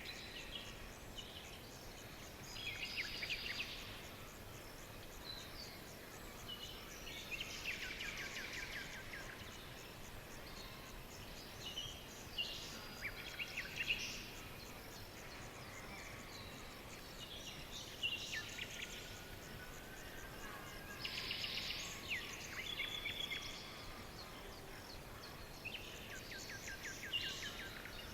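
Songbirds singing in short, rapid trilled phrases every few seconds, over a steady background hiss.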